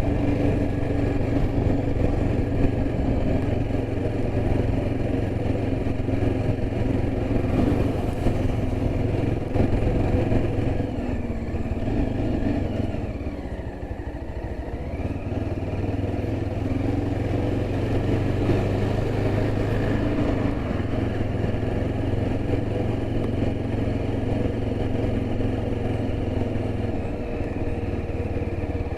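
Yezdi Adventure's 334 cc single-cylinder engine running steadily on the move, easing off briefly about halfway through and then pulling again.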